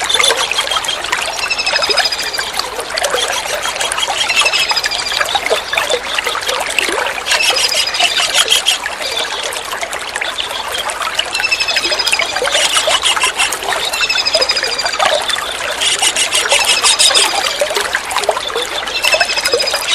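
Small kingfisher (tengkek udang) calling: short, high, slightly falling whistled notes every second or two, broken by several bouts of rapid buzzy trilling, over a steady trickle of running water.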